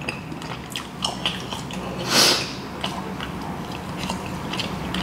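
Close-miked chewing of braised oxtail: small wet mouth clicks, with a short hissing rush about two seconds in.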